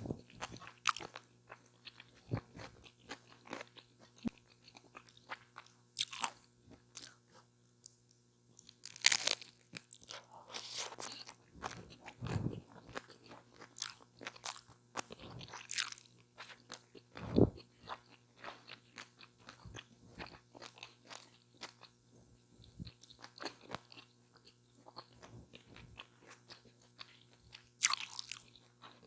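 Close-miked eating of a chicken taco: crunchy bites and chewing with irregular crackly clicks, in clusters about nine seconds in, around the middle and again near the end, with a couple of low thuds between them.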